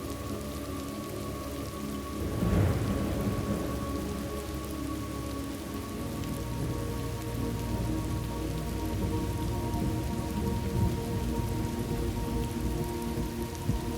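Steady rain falling, with a thunderclap about two and a half seconds in that rolls on as a low rumble through the rest of the stretch.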